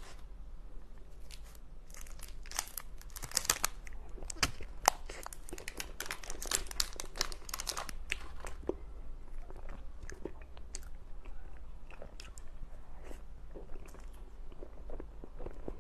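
Close-miked eating of a snow-skin mochi (xue mei niang): bites and chewing, a dense run of short clicks and smacks that thins out after about eight seconds.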